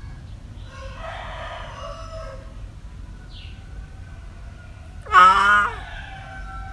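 Cat meowing: a fainter drawn-out meow about a second in, then one loud meow near the end.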